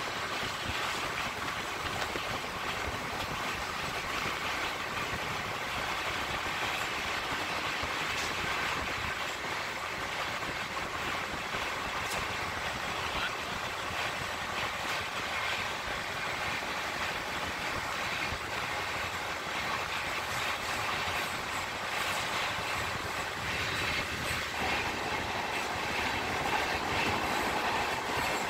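Two express passenger trains running side by side at speed, heard from the open door of one of them: a steady rumble with the clatter of wheels over rail joints, getting a little louder over the last few seconds.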